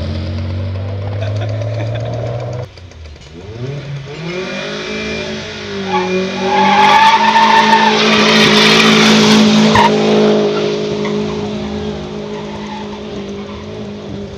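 A car engine revs up and the tyres spin and squeal in a burnout for about four seconds, starting about six and a half seconds in. The engine then runs on steadily, slowly getting quieter.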